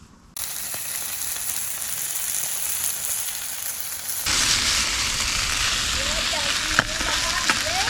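Sausages sizzling in a frying pan over a campfire: a steady, dense sizzle that starts suddenly just after the start and gets louder about four seconds in.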